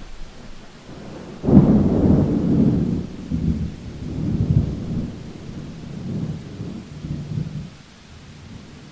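A thunderclap breaks suddenly about a second and a half in, then rolls on in rumbling waves for several seconds before dying away, over steady rain.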